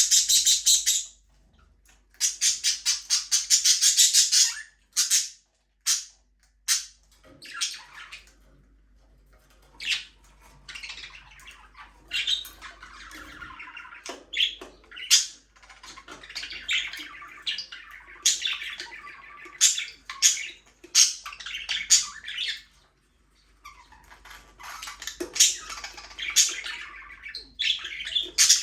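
Budgerigars (budgies) chirping and squawking. Loud, harsh, rapid chatter comes in the first few seconds, then a steady mix of short chirps and warbling calls.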